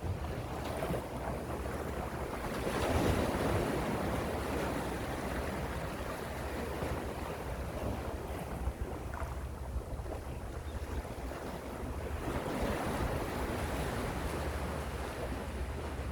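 Calm sea waves washing in, swelling twice, about three seconds in and again near twelve seconds, with a steady low rumble of wind on the microphone.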